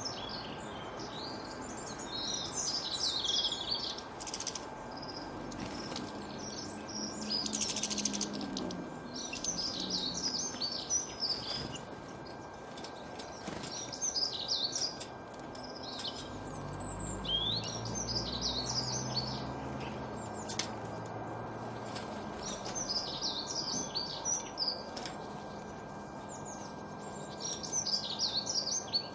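Birds singing in repeated short bursts of high chirps every couple of seconds, over a steady background hiss. A low hum rises and fades again about two-thirds of the way through.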